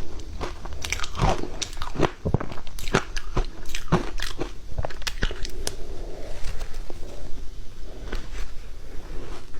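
Close-miked crunching of matcha ice being bitten and chewed: a quick run of sharp cracks, then softer grinding chews with fewer cracks over the last few seconds.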